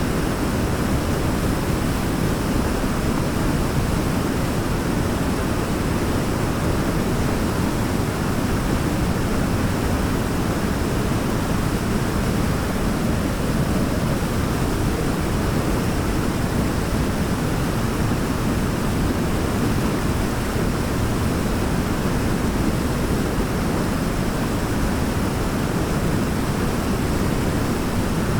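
Waterfall: water falling and pouring in a steady, deep rush with no changes.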